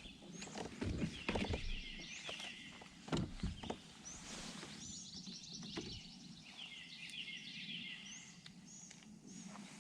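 Songbirds singing, with repeated runs of quick chirps, and a few soft knocks in the first few seconds.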